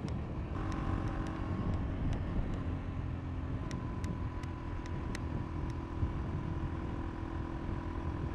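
2022 KTM RC390's single-cylinder engine running at a steady cruise, picked up on a helmet-mounted mic together with a low wind and road rumble. The engine holds an even note from about half a second in.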